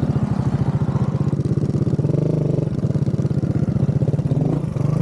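Motorcycle engine running steadily, with an even, rapid pulse.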